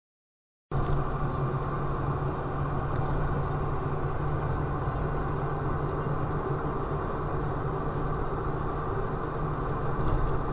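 Steady car engine and road noise as picked up by a dashcam, with an even low hum and no impacts. It starts abruptly just under a second in.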